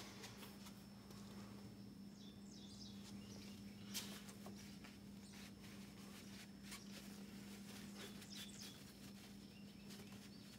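Near silence: a steady low hum with faint scattered clicks, one slightly sharper click about four seconds in, and a few faint high chirps.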